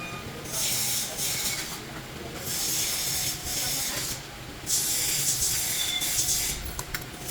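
Three long hissing sprays in a row, each lasting about one and a half to two seconds, with short pauses between them.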